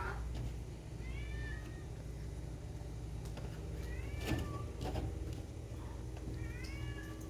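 A bird begging for food gives three short, high calls that slide in pitch, spaced a few seconds apart, over a steady low hum.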